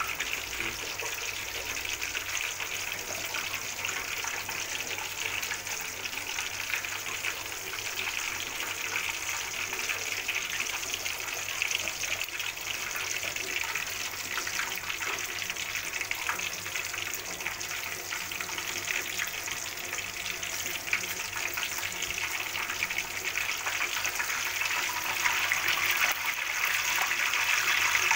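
Tempe and tofu pieces deep-frying in hot oil in a wok: a steady sizzle with fine crackling, growing louder near the end.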